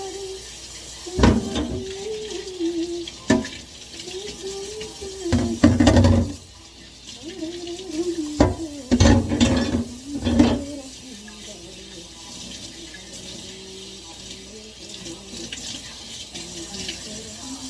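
Tap water running into a sink while dishes are washed, with several loud clatters of dishes and utensils knocking together about a second in, around three and six seconds in, and in a cluster from about eight to ten and a half seconds.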